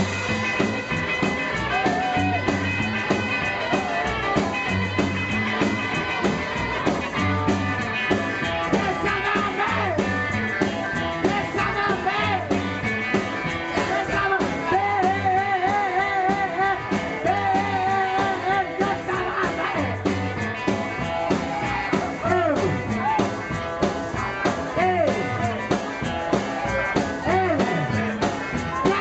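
Live rock and roll band playing, with a steady bass and drum beat under a wavering lead line.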